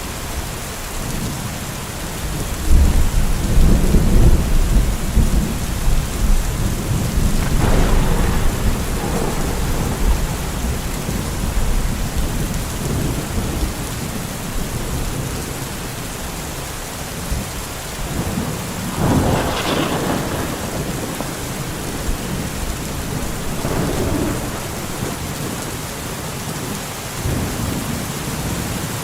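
Steady rain with thunder: a heavy low rumble rolls in about three seconds in and lasts several seconds, and a sharper peal comes about two-thirds of the way through.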